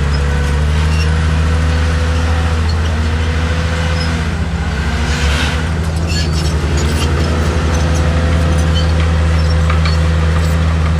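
Diesel engine of heavy earthmoving equipment running steadily under load, a deep hum with a higher whine that wavers in pitch.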